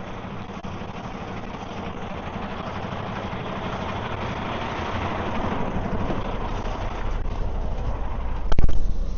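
Semi-truck's diesel engine running at low speed while the tractor-trailer backs toward a loading dock door, its sound slowly growing louder. A sudden loud thump comes about eight and a half seconds in.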